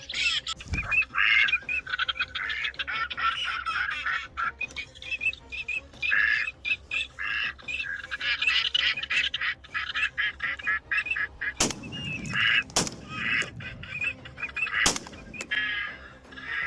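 Ducks quacking over and over in a rapid series. Three sharp bangs come about twelve, thirteen and fifteen seconds in.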